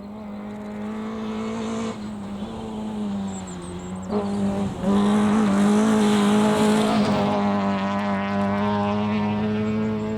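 Rally car engine running at high revs on a stage, growing louder as the car comes closer, with short breaks in the note about two and four seconds in, then a loud, steady note from about five seconds in.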